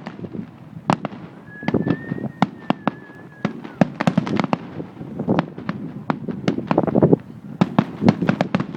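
Fireworks display going off in quick succession: a dense string of sharp bangs and crackles, many close together, with a steady whistle lasting about two seconds near the start.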